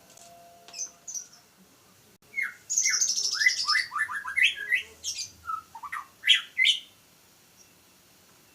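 Young white-rumped shama singing: two short high notes about a second in, then a phrase of quick downward-sweeping whistled notes mixed with high chattering that lasts about four seconds, the song of a young bird still learning.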